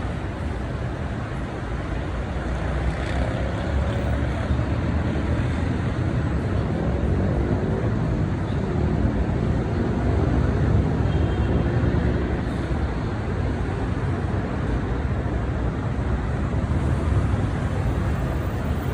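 Road traffic from above: heavy vehicle engines and tyres in a steady rumble, a little louder from about three seconds in.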